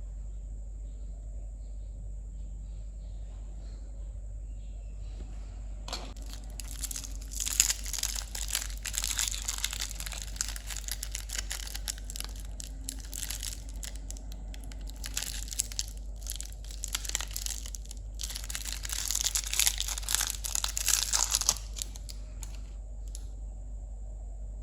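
Candy wrappers being crinkled and torn open by hand: dense crackling that starts about six seconds in, grows loudest near the end, then stops.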